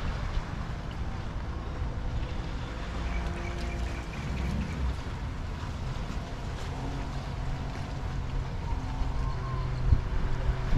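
Harbor ambience: wind rumbling on the microphone under the low hum of a boat motor running, with a brief knock near the end.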